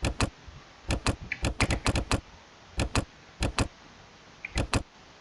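Sharp clicks from operating a computer, mostly in quick pairs like double-clicks, with a faster run of five or so about two seconds in.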